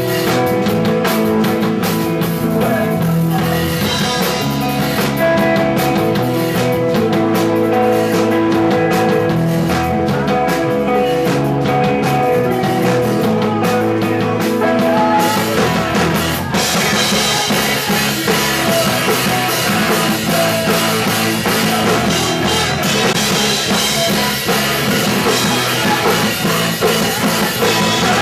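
A punk rock band playing live, with a drum kit and electric guitars. A little past halfway the sound turns brighter and fuller.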